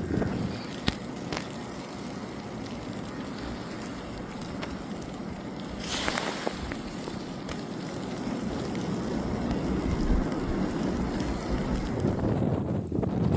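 Wind of a snowstorm blowing over the microphone: a steady rushing noise that grows a little toward the end, with a brief louder hiss about six seconds in.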